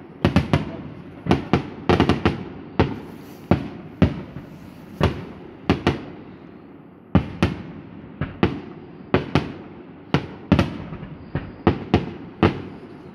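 Fireworks display: an irregular rapid series of sharp bangs from bursting aerial shells, about two a second, each with a short echoing tail, easing off briefly midway before picking up again.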